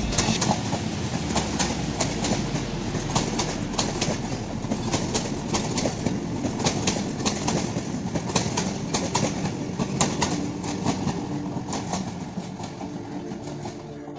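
Passenger train running through the station without stopping, its wheels clattering rhythmically over the rail joints, fading away over the last few seconds.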